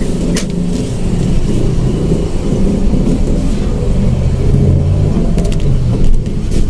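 Mitsubishi Mirage manual car driving: engine running with road rumble, heard from inside the cabin, the engine sound swelling about four seconds in.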